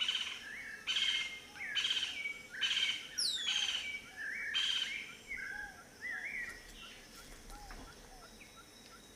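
Wild birds calling: a series of six loud, harsh, raspy calls about one a second, then quieter short whistled notes from other birds, with one high whistle sliding downward about three seconds in.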